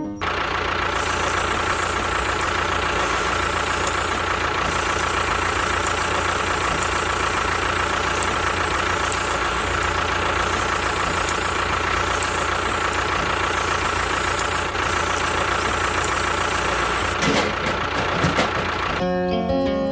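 A small motor running steadily with a constant high whine, with a few clicks and knocks near the end.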